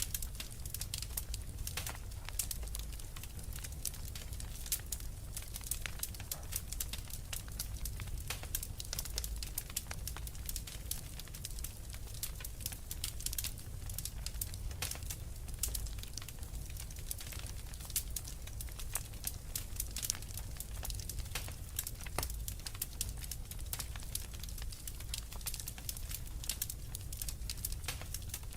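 Fire in a fireplace crackling: dense, irregular sharp crackles over a steady low rumble.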